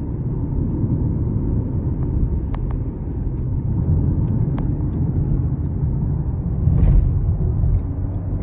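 A car driving on a highway: steady low road and engine rumble, swelling slightly about seven seconds in.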